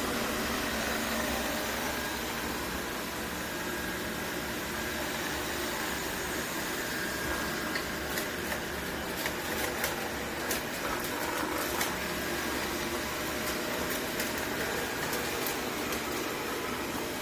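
Robot vacuum cleaner running with a steady whirring hum. From about eight seconds in, scattered sharp clicks and taps sound over it.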